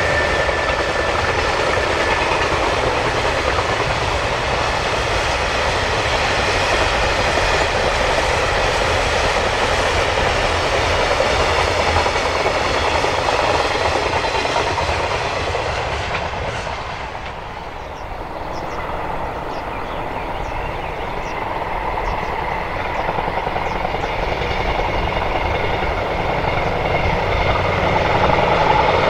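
A train running past on steel rails, with a steady noise of wheels on track that eases about two-thirds of the way through and then builds again.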